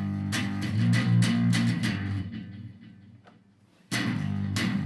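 Single-coil Stratocaster electric guitar played through a Korg A5 multi-effects processor with the gain turned up: a run of strummed chords that fades away about two seconds in, then strumming starts again near the end.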